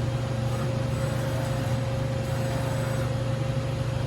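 Doosan Lynx 220LC CNC turning center running under power, a steady hum with a constant mid-pitched whine, as its Z-axis slide is traversed smoothly.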